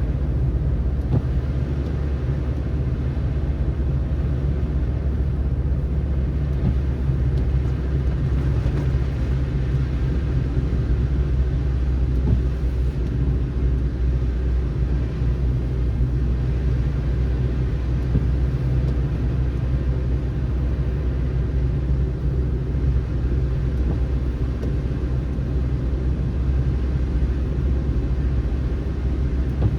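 Steady low rumble of a car being driven, with engine and road noise held level throughout.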